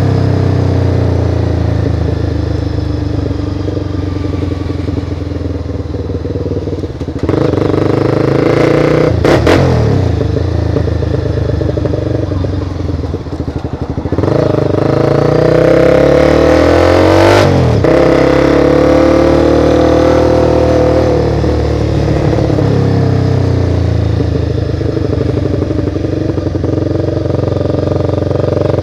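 Honda CBR motorcycle engine running while riding, its revs rising and falling several times through acceleration and gear changes, with two brief sharp sweeps partway through.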